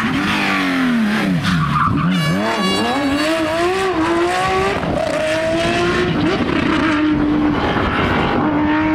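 Porsche 911 flat-six rally car engine at speed: the revs drop and climb several times over the first four seconds, then run steadier at a middling pitch.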